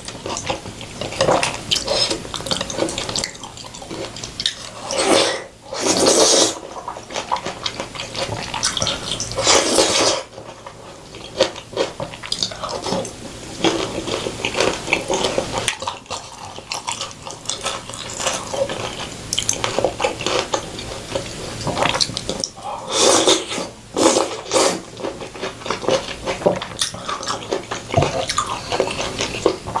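Close-miked mukbang eating sounds: steady wet chewing and smacking, broken by several long slurps, about a second each.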